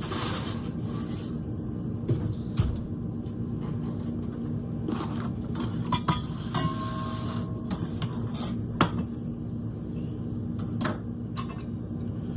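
Kitchen clatter: scattered knocks and clicks of dishes, pans and cupboard doors over a steady low hum, with a brief tone about seven seconds in.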